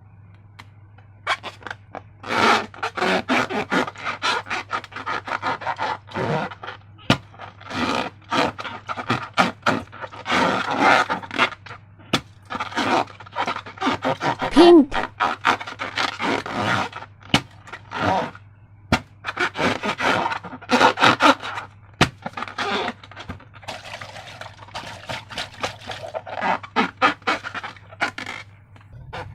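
Slime being handled and worked with balloons: runs of sticky, crackly scrapes and sharp clicks in quick, irregular bursts, with one brief squeak about halfway through.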